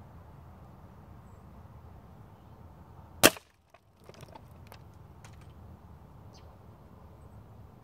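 A single sharp shot from a .22 PCP air rifle, the Umarex Gauntlet, about three seconds in, followed by a few faint clicks. A low steady background noise runs underneath.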